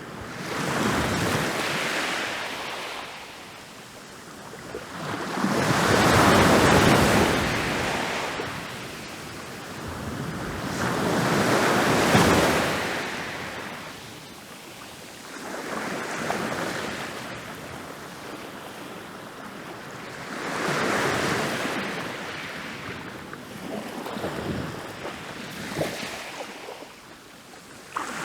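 Ocean waves rolling in and crashing on a beach, a rush of surf swelling and fading about every five seconds, six times over.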